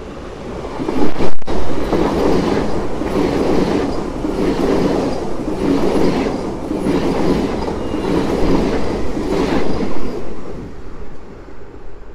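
PKP Intercity ED250 Pendolino express passing through the station at speed without stopping: a loud rush of wheels and air that swells about a second in with a sharp crack as the front goes by, pulses about once a second as the cars pass, and fades over the last couple of seconds.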